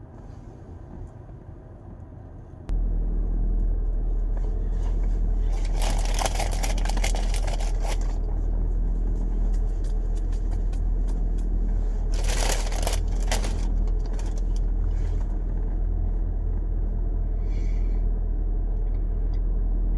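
A loud, steady low rumble starts abruptly about three seconds in and runs on, with two stretches of rustling and scraping over it.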